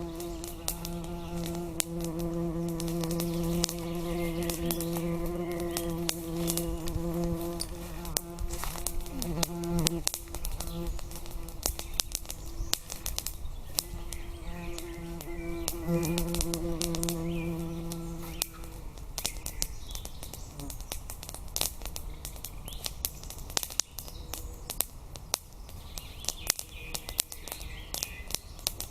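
A flying insect buzzing close to the microphone, a steady hum that stops about ten seconds in and comes back for a couple of seconds later on. Sharp crackling clicks are scattered throughout.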